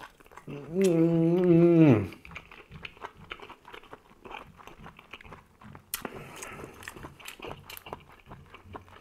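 A man's long hummed "mmm" of enjoyment about a second in, then close-up chewing and biting of squid tagine, full of small wet mouth clicks and light crunches.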